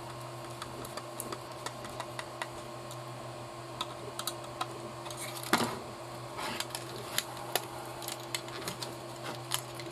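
Light clicks and taps of small plastic parts and tools being handled on a workbench during a model kit build, with a louder knock about five and a half seconds in. A steady low hum runs underneath.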